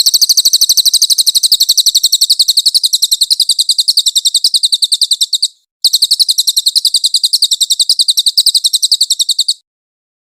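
Cililin bird singing a long, rapid, high-pitched trill of about a dozen evenly repeated notes a second. The trill breaks briefly about five and a half seconds in, resumes, and stops shortly before the end.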